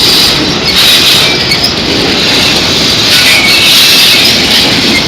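A train passing close by, its wheels running loud and steady on the rails.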